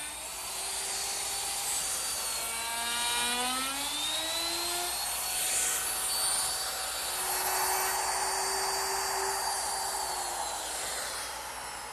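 Electric router with a rabbeting bit running and cutting a rabbet into a drawer front, its high-pitched motor whine shifting in pitch as it works.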